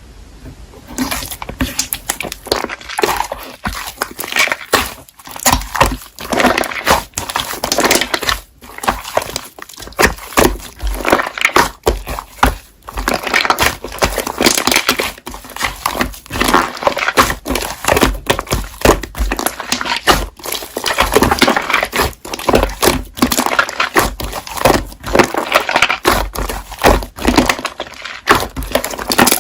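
Slime being squeezed and pressed by hand, giving a continuous run of irregular crackling pops and clicks.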